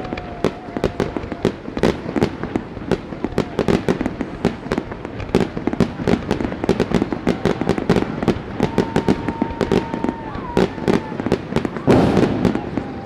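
Aerial fireworks shells bursting in quick succession, a dense run of sharp bangs several a second. The loudest and broadest burst comes near the end.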